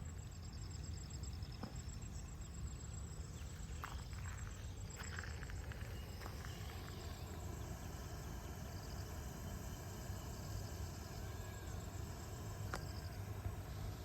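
Insects, crickets or similar, trilling in high-pitched pulsed runs over a steady low rumble, with a few faint clicks.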